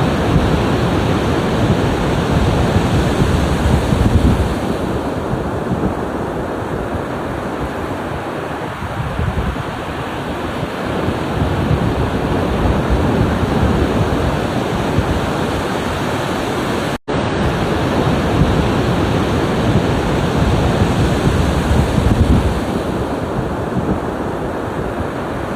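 Ocean surf washing in steadily, swelling and easing as waves break, with a brief cut to silence about two-thirds of the way through.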